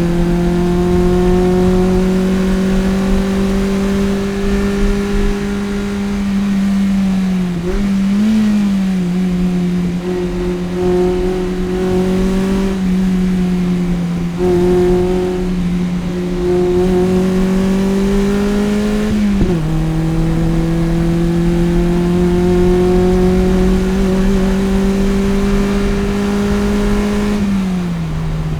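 Toyota MR-S's 1.8-litre 1ZZ inline-four with a header and aftermarket exhaust, run hard on track, its pitch climbing slowly under full throttle. About a third of the way in the revs dip and blip once, two-thirds in they drop sharply at a shift and climb again, and near the end they fall away as it lifts off.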